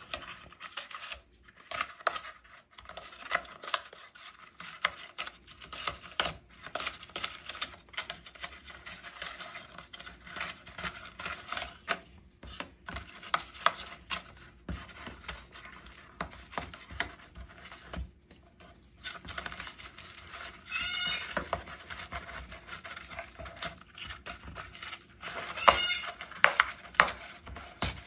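Moluccan cockatoo crunching and tearing dry material with its beak: a dense run of small crackles and snaps. A short bird call comes about twenty seconds in, and a louder one near the end.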